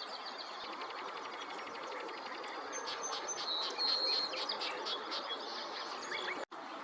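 Wild songbirds chirping and singing over a steady outdoor background hiss, with a run of quick, high notes and short whistles in the middle. The sound cuts out for an instant near the end.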